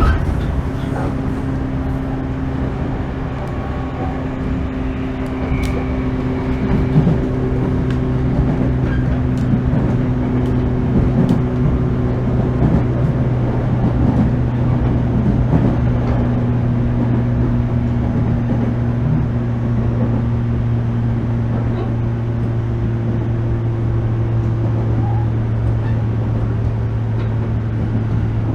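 Inside a 415 series 1500-subseries electric multiple unit running at steady speed: a steady hum with a few faint clicks from the track.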